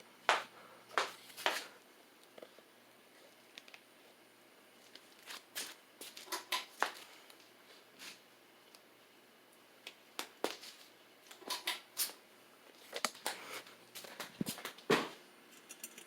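Harbor Breeze Armitage ceiling fan running, with irregular sharp clicks and taps, some in quick clusters, over a faint low hum.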